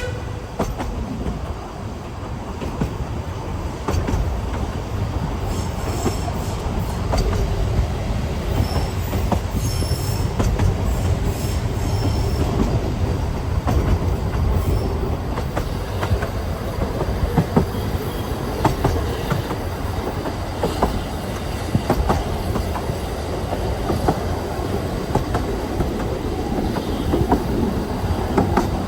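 Ffestiniog Railway narrow-gauge train running on the track: a steady rumble of wheels on rails with irregular clicks from the rail joints, and faint high wheel squeal now and then.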